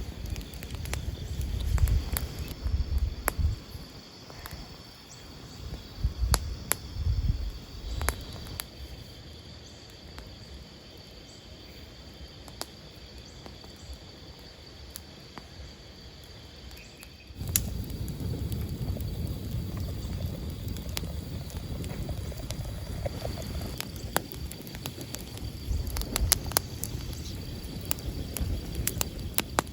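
Outdoor ambience: a steady high chirring with low rumbling noise and scattered sharp clicks. The rumbling comes in uneven surges at first, then abruptly becomes louder and steadier a little over halfway through.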